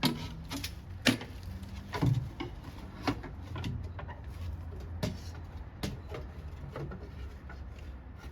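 Scrap-wood fire crackling, with irregular sharp pops and cracks over a steady low rumble of the burning.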